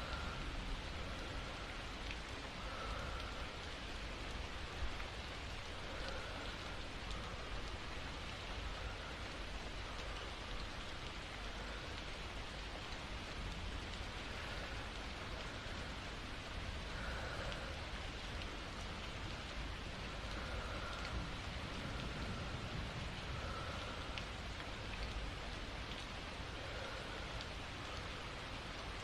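Steady rain falling, with faint soft breaths every two to three seconds.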